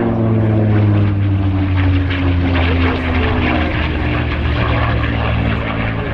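Propeller aircraft engine passing by at an airshow display. Its note drops in pitch in the first second or two as it goes past, then holds as a steady low drone.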